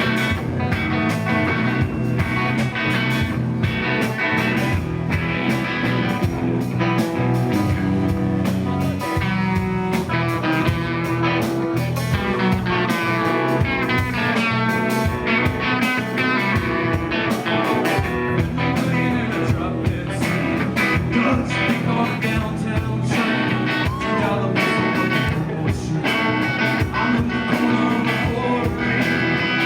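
Live rock band playing: electric guitar and drums, with a voice singing over them.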